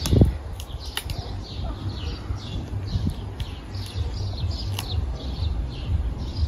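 A small bird chirping over and over, about three short high chirps a second, with a low rumble underneath and a few sharp clicks.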